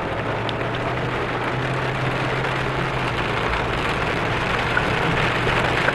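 Heavy rain falling, a steady even hiss, with a low steady hum underneath.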